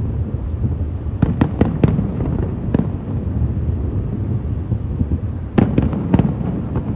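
Fireworks display: a string of sharp bursting cracks about a second in, and another near the end, over a continuous low rumble of shells going off.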